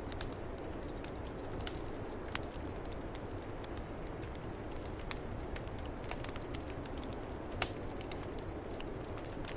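Wood fire crackling, with scattered sharp pops, one louder pop near the end, over a steady low rush of snowstorm wind.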